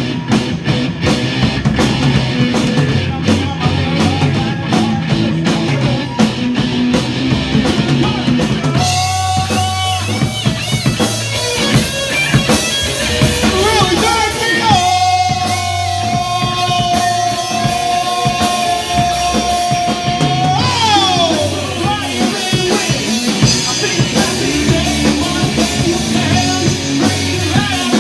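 Rock band playing with drums and electric guitar. A lead line comes in about a third of the way through, holds one long note, then slides down in pitch about two thirds of the way in.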